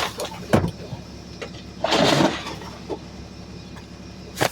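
Garbage truck engine running steadily, with a knock about half a second in, a short loud rush of noise about two seconds in, and a sharp bang near the end.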